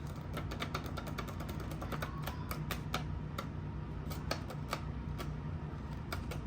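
Paper banknotes being counted by hand: a run of quick, crisp flicks and snaps, closely spaced at first and then more spread out, over a steady low hum.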